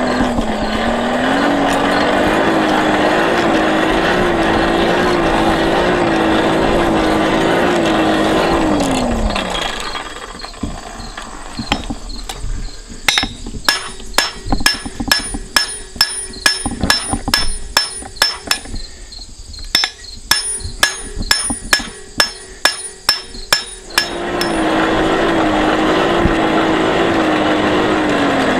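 Forge blower running with a wavering hum, then winding down in pitch about nine seconds in as the iron comes out of the fire. Then a hammer strikes hot iron on the anvil about two times a second, each blow ringing, with a short pause midway, as the round stock is drawn to a taper. Near the end the blower runs again and winds down.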